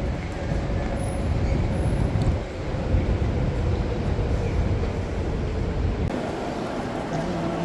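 Steady low rumble of a train in motion, which stops abruptly about six seconds in.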